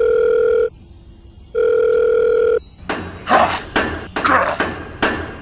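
Telephone ringing tone, heard as a caller hears it: two long, steady electronic beeps about a second apart. About three seconds in, a regular run of sharp percussive hits begins, about two a second.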